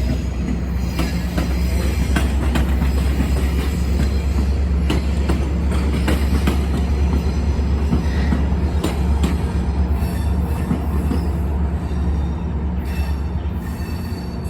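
MARC commuter train's passenger cars rolling past, a steady low rumble with scattered sharp clicks from the wheels.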